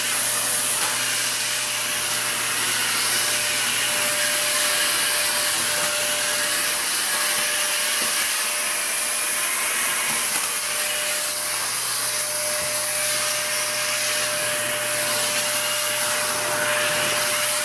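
Vacuum cleaner running steadily: a rushing hiss with one steady tone through it.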